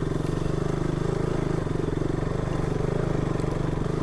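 Single-cylinder motorcycle engine running at low, steady revs, with an even pulsing beat.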